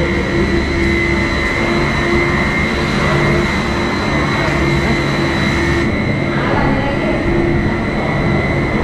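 Cable car ropeway machinery running: a steady mechanical hum with a constant high whine.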